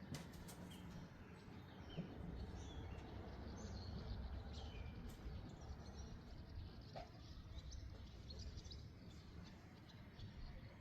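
Small birds chirping here and there over a steady low rumble of wind, with a few sharp clicks at the start.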